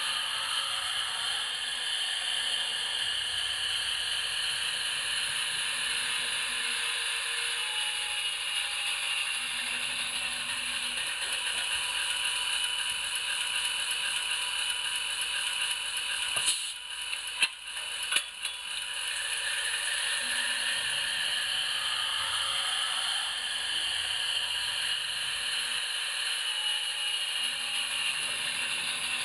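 HO-scale PIKO diesel model locomotive running with its sound decoder on: a steady diesel engine sound from the small onboard speaker, with motor whir and wheel clatter on the track. A few sharp clicks come about two-thirds of the way through.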